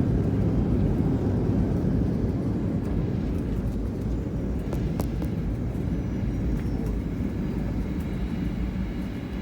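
Boeing 777-200 cabin noise: a steady low rumble of jet engines and airflow that slowly fades, with a single sharp click about five seconds in.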